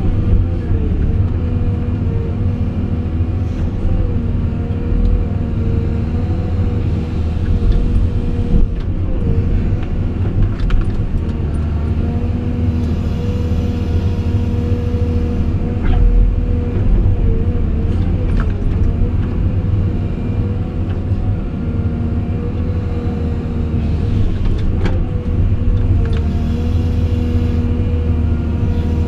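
Caterpillar 349E hydraulic excavator at work: its C13 diesel engine runs with a steady deep rumble and a steady whine that wavers briefly several times, with a few sharp knocks.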